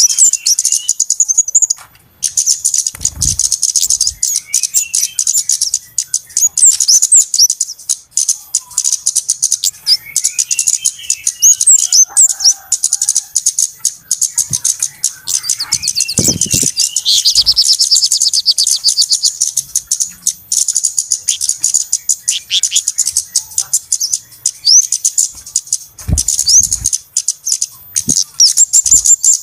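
Flowerpeckers (kemade, cabe-cabean) calling noisily: a busy stream of high-pitched chirps and quick ticks, with a fast trill of repeated notes about 17 seconds in. A few brief low thumps come in among the calls.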